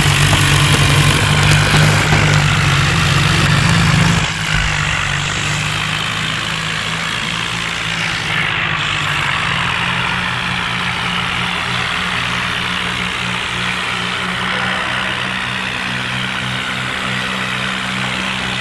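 Diesel tractor engine running steadily, easing down a little about four seconds in and then holding a lower, steady note.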